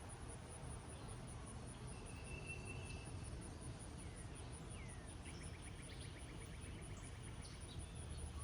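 Field ambience of a steady, high-pitched pulsing insect trill, cricket-like, over a soft, even background hiss of light rain. Birds call over it: a held whistled note about two seconds in, then a falling chirp and a rapid ticking trill from about five seconds to near the end.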